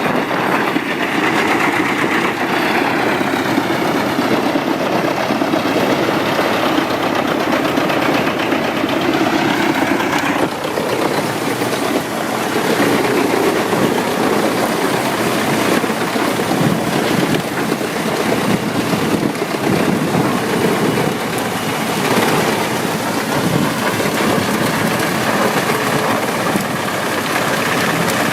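Wood chipper running, a loud continuous engine and machine noise; the sound changes abruptly about ten seconds in.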